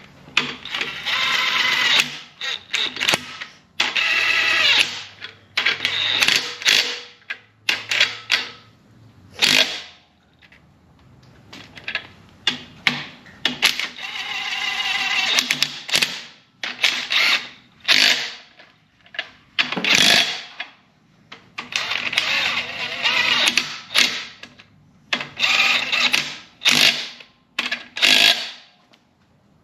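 Ratchet wrench spinning bolts down on a 5.9 Cummins engine block in repeated bursts of rapid clicking, running them in snug before final torquing.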